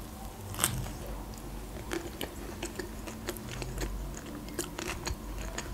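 A bite into a toasted club sandwich with one crisp crunch about half a second in, then chewing: many small irregular wet clicks of mouth and food.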